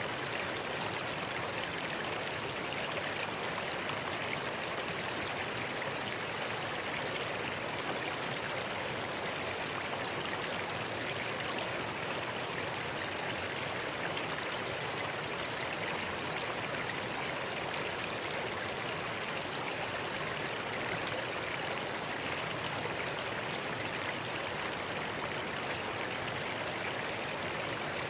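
Mountain gorge stream flowing: a steady, unbroken rush of water.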